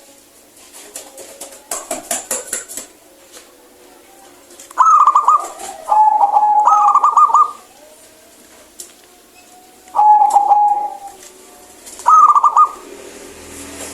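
Zebra dove (perkutut) singing: several loud phrases of quick, rattling coo notes, the first about five seconds in, the longest running about a second and a half. A brief clattering rustle comes about two seconds in, with faint high chirps of other birds behind.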